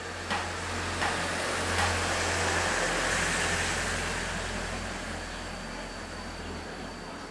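A road vehicle passing by, its noise swelling and then slowly fading, with a few sharp clicks in the first two seconds.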